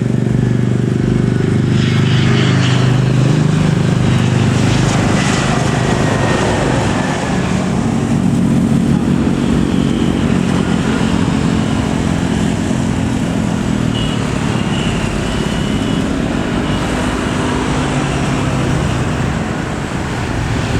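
Jet airliner engines passing close by with a loud, steady rumble, and a faint whine that falls in pitch a few seconds in.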